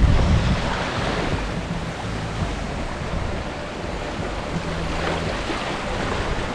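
Water rushing and bubbling along a sailboat's hull as it sails downwind, with wind buffeting the microphone in low gusts.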